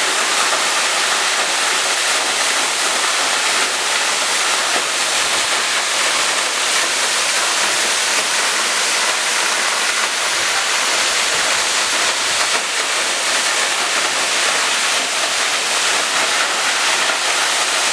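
Waterfall: a steady, even rush of falling water, loud and unbroken.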